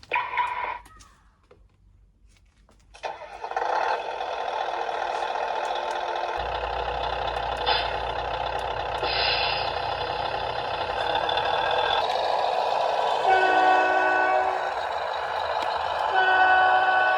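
Simulated truck engine from a Tamiya Scania R730 RC model's sound unit, starting up about three seconds in and then running steadily. Two short air-brake hisses come a little later, and two horn blasts near the end.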